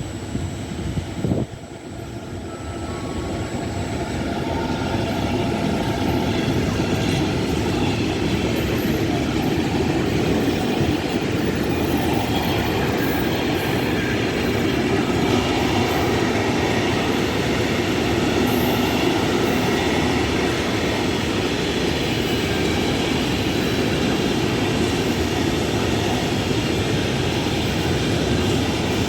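A train running through a station on its wheels and rails, growing louder over the first few seconds and then holding steady. A brief thump about a second in.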